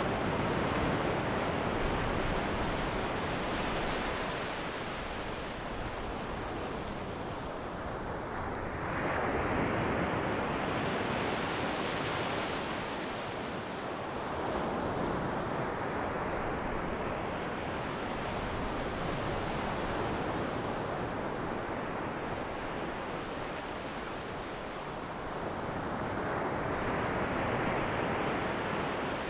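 Ocean waves breaking and washing up on the shore, a steady rush of surf that swells into a fresh surge every several seconds, four times, and fades between them.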